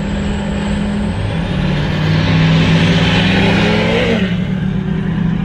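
Chevrolet Camaro ZL1's supercharged V8 running through a newly fitted Corsa muffler, revved once. The engine note climbs from about a second and a half in and falls back to idle a little after four seconds.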